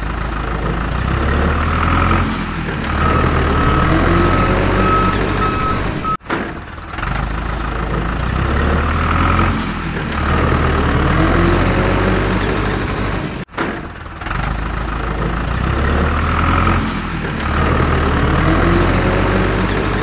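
A heavy vehicle engine running, its pitch rising in repeated sweeps, laid over a toy tractor as a sound effect. The engine breaks off and starts again twice. A reversing beeper sounds from about three seconds in until about six seconds in.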